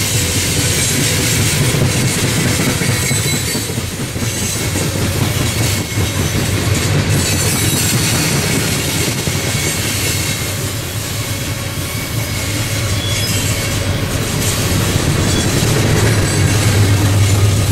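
Freight train of coal cars rolling past: a steady rumble of steel wheels on rail, with clacking over the rail joints and thin, high wheel squeals. The low rumble grows stronger near the end.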